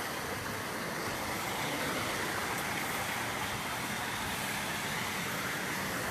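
A car driving slowly through a flooded street, its engine and the water off its tyres a steady wash of noise.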